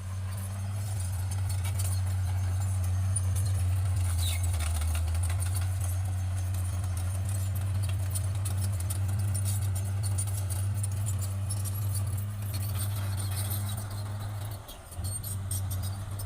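Bulldozer's diesel engine running with a steady low drone, with rapid clicking and clanking over it. The engine note drops briefly near the end.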